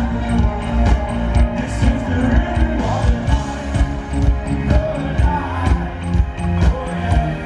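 Live rock band playing loud, with a heavy bass and drum beat under guitar and keyboard lines.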